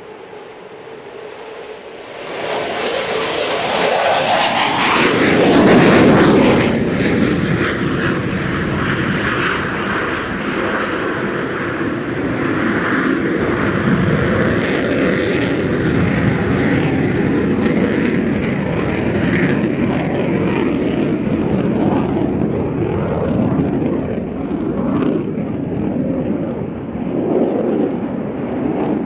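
Eurofighter Typhoon's twin jet engines on take-off. The noise builds, peaks as the jet passes about five to six seconds in, with the pitch dropping as it goes by, then carries on as a steady loud rumble while it climbs away.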